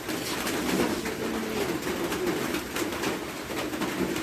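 A dove cooing low and repeatedly, over a scatter of sharp ticks.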